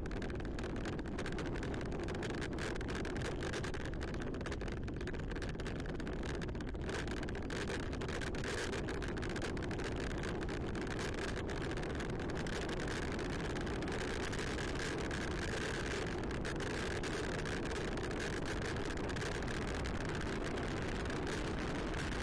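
Steady riding noise of a bicycle rolling along a trail, with frequent small clicks and rattles.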